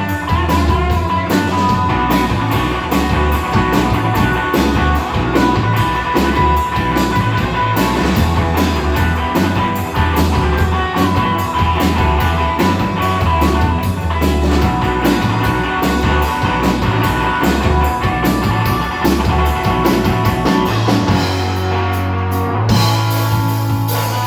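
Rock band playing an instrumental passage with guitar and drum kit, a steady beat running until the drumming thins out near the end.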